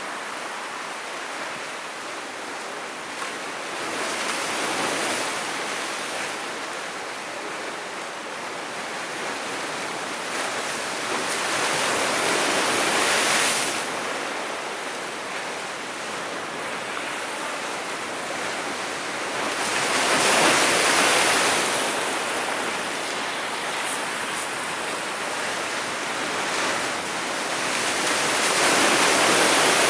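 Sea waves breaking, a steady rush of surf that swells louder as a wave comes in about every eight seconds, four times.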